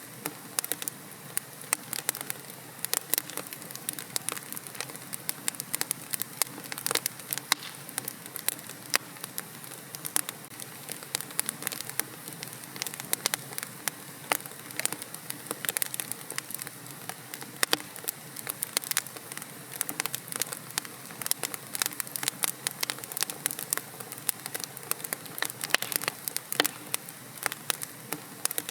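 Wood fire burning in a fireplace, crackling with many sharp irregular pops over a steady low hiss.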